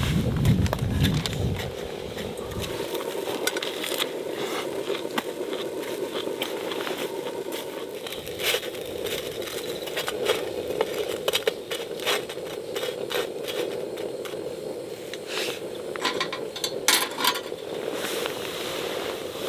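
Wood campfire crackling: frequent sharp pops and snaps over a steady hiss of burning, with a low rumble in the first few seconds.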